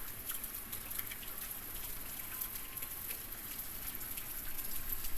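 Typhoon rain falling steadily, a continuous hiss with scattered individual drops ticking close by.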